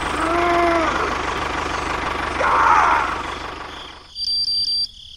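A small motor running steadily with a fine, even rhythm. Near the end it gives way briefly to a few short high beeps.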